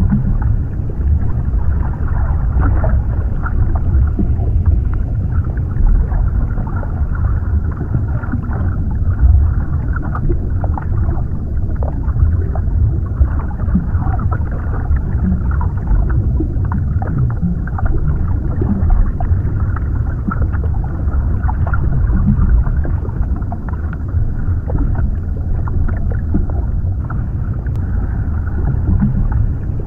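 Underwater ambience: a steady, muffled wash of water, heaviest in the low range, with small clicks and bubbling scattered through it.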